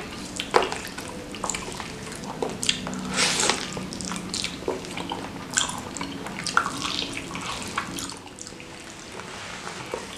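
Close-miked wet chewing and lip-smacking from a mouthful of spicy beef kikil, with irregular sharp clicks and squelches and a longer wet smear about three seconds in.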